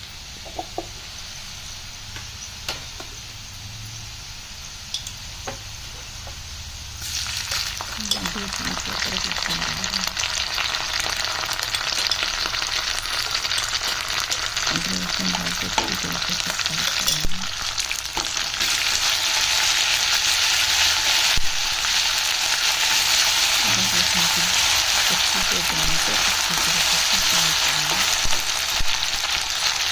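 Browned onions and whole spices sizzling in hot oil in a pan for a chicken curry, with occasional stirring. The sizzle jumps much louder about seven seconds in and again near eighteen seconds.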